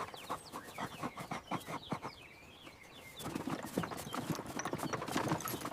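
Horse hooves stepping and shuffling: irregular knocks in two spells, with a short lull between.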